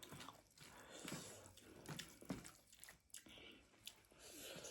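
Faint close-up chewing of meat: soft wet mouth sounds with small irregular clicks.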